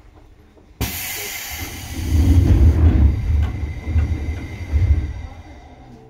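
Seibu 2000 series electric train heard from on board: a sudden loud hiss about a second in, then heavy, uneven low rumbling that builds over the next few seconds and fades near the end.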